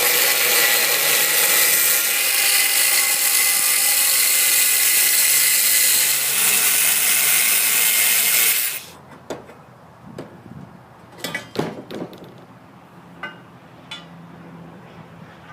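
Angle grinder with a cutting disc cutting 1-inch square metal tubing, running loud and steady for about nine seconds and then stopping suddenly. A few light clicks and knocks follow.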